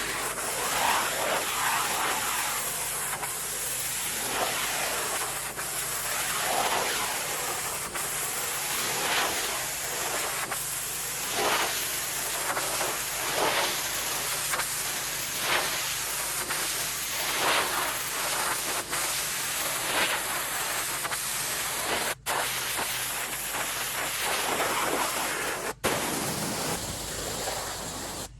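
A pressure washer's high-pressure water spray hisses steadily against a surface, surging about once a second as the wand sweeps back and forth, with a low engine hum underneath. It cuts out for an instant twice near the end.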